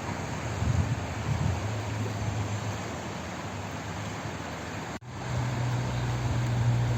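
Steady rush of flowing water, an even hiss with a low rumble underneath. The sound cuts out for an instant about five seconds in, then carries on.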